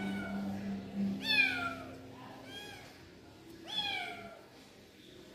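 Kitten meowing, three high calls that each fall in pitch, the loudest about a second in. The title calls it panicked meowing because the other kitten is shut in the basket.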